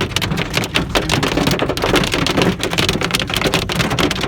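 Pea-sized hail pelting a car's roof and windshield, heard from inside the cabin: a dense, irregular clatter of hits over a low steady rumble.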